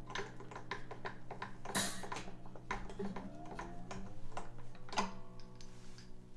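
A string winder cranking tuning pegs on a 12-string acoustic guitar: a run of irregular clicks from the winder and tuner gears over the open strings ringing, with one string's pitch gliding up as it is wound taut about three seconds in.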